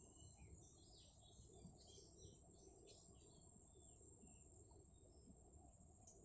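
Faint chirping of small birds: a quick run of short notes over the first four seconds or so, thinning out after that. A steady thin high whine and a low outdoor rumble sit underneath.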